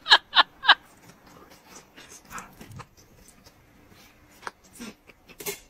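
Mouth sounds of someone eating grilled meat off a skewer: soft chewing, smacking and small clicks, with a sharper click near the end.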